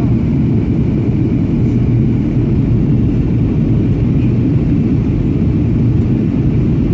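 Steady low rumble inside the cabin of a Boeing 737-800 in flight on approach: its CFM56 engines and the airflow over the fuselage, with a constant low hum through it.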